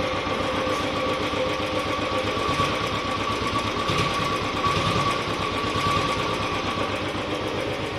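Royal Enfield Classic 350's single-cylinder engine idling steadily, with small swells in speed, after its worn cam gear kit has been replaced. The earlier heavy engine noise is gone and it runs with its normal stock sound.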